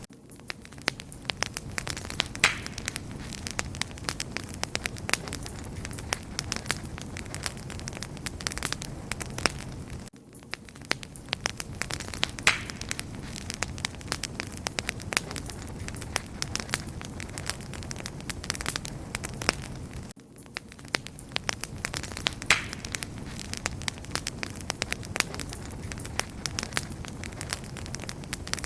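Wood fire burning with dense crackling and popping over a low rushing of flame. The same ten-second stretch repeats, with a brief dip at each join.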